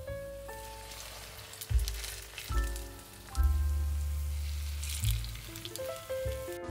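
Food sizzling and crackling as it fries in oil in a pan, louder for a couple of seconds in the middle. Background music with piano and bass notes plays over it.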